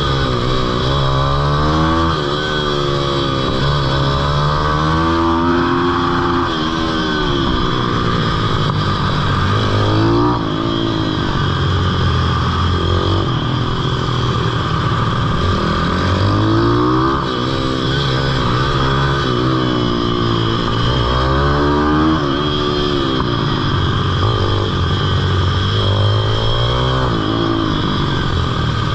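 Pitbike's single-cylinder engine running hard, its pitch climbing and dropping back again and again every few seconds as the throttle is opened and closed.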